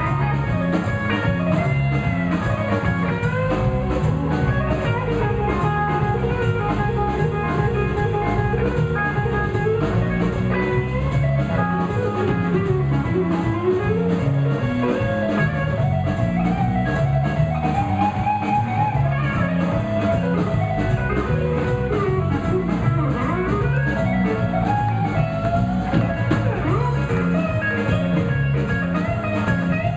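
Live blues band playing an instrumental break: an electric guitar solo over bass and drum kit with a steady beat.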